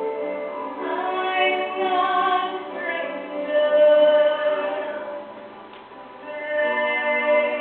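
A female voice singing a slow, sustained ballad melody over musical accompaniment, with a softer passage about five to six seconds in before it swells again.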